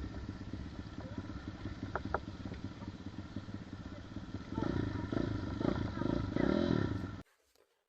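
BRZ 110cc pit bike's single-cylinder four-stroke engine running. About halfway through it gets louder and revs up and down, then cuts off suddenly near the end.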